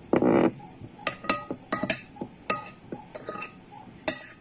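Cutlery clinking and scraping against a dish while scooping fried rice: a string of light, sharp ringing clinks at irregular intervals, after a short noisy burst right at the start.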